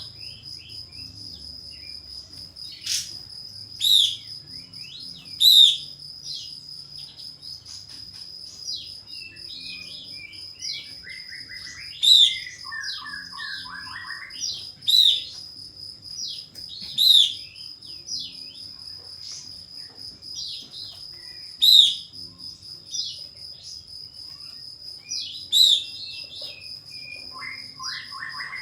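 Kapas tembak bulbul calling: loud, sharp, short whistled notes repeated every second or few, with a chattering run of notes that falls in pitch about ten seconds in and again near the end. A steady high insect-like whine runs underneath.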